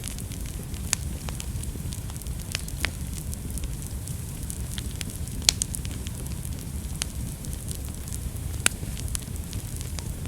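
Wood fire burning in a fireplace: a steady low rumble of the flames with many sharp, irregular crackles and pops, the loudest pops about five and a half and about eight and a half seconds in.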